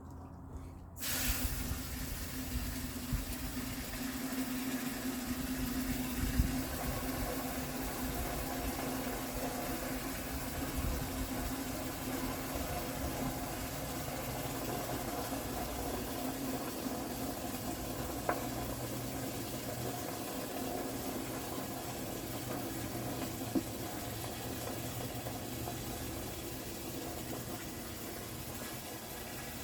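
Water running into a bucket, filling it steadily; the flow starts suddenly about a second in.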